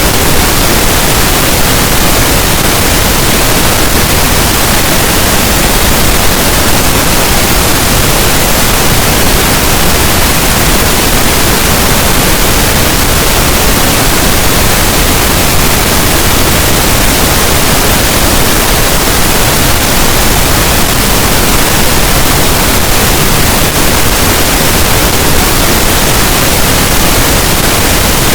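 Steady, loud pink noise: an even hiss with no changes.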